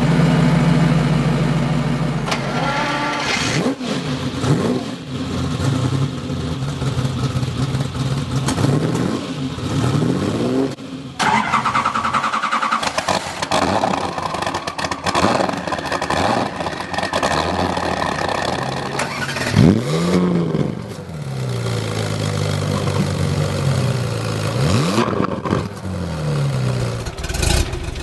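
Car engine revved again and again, each blip rising in pitch and falling back to a steadier run between.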